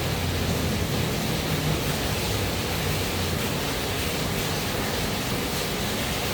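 Steady rain falling, an even hiss. A low rumble underneath fades out in the first second or so.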